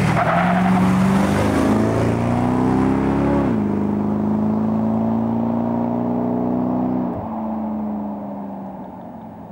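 1962 Dodge's 360 cubic inch V8, running with vacuum (negative-pressure) supercharging, opened up suddenly and climbing in pitch. The pitch steps down about three and a half seconds in and holds steady. It drops again about seven seconds in and fades toward the end.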